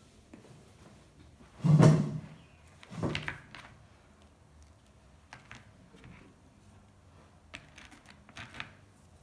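Two loud thunks about a second apart, then scattered light clicks and knocks, typical of a door, drawer or cupboard being handled in a small room.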